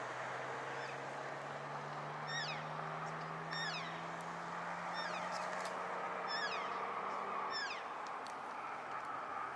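Cow elk calling: about six short, high mews that fall steeply in pitch, roughly one every second and a half. A low steady drone runs underneath and stops about eight seconds in.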